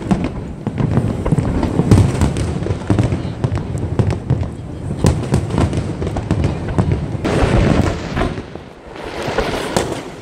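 Aerial fireworks barrage: many shells bursting in quick, overlapping bangs and crackles over a continuous low rumble, easing briefly about eight and a half seconds in before building again.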